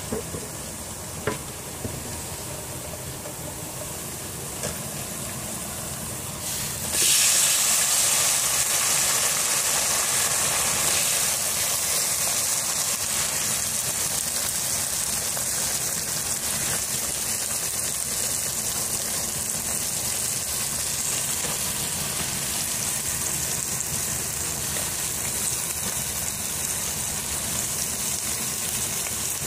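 Gourd slices frying in hot oil in a pot: a steady sizzle that jumps much louder about seven seconds in as the slices go into the oil, with a few light knocks before that.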